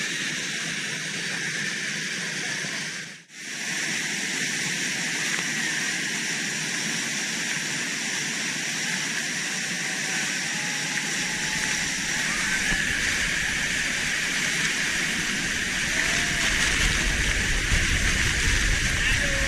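Waterfall water rushing, a steady hiss. It breaks off briefly about three seconds in, and a low rumble joins from about eleven seconds.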